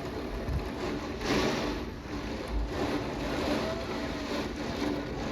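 Heavy rain and gusting wind in a thunderstorm: a steady rushing that swells and eases in gusts, with a couple of low bumps.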